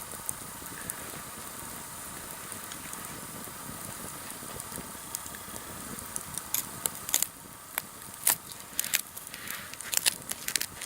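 Campfire of sawtooth oak (kunugi) logs burning: a steady rush of flames, with sharp crackles and pops that come thick and loud from about six seconds in.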